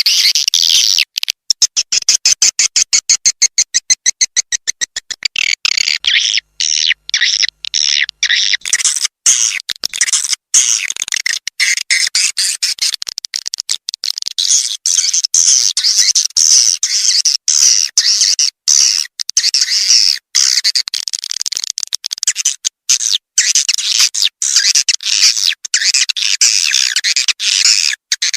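Swiftlet lure call: a looped track of edible-nest swiftlet chittering, played to attract the birds to a nesting house. It opens with a rapid, even train of high chirps, and about 9 seconds in turns into a denser, continuous twittering. Abrupt cut-outs throughout show the track has been edited.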